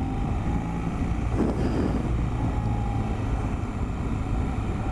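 BMW R 1300 GS boxer twin running steadily on the road, mixed with wind and road noise, picked up by a wireless mic on the rider's helmet.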